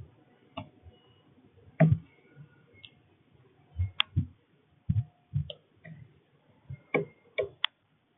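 Irregular sharp clicks and knocks, a dozen or so, from a northern cardinal feeding and cracking seeds. Faint short chirps sound between them.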